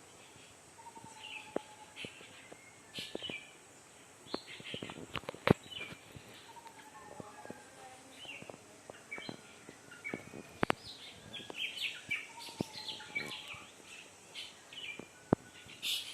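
Several birds chirping and calling in a morning chorus: many short, high chirps, with a low falling whistled note about a second in, again about seven seconds in and near twelve seconds. Sharp clicks cut through a few times, the loudest sounds in the mix.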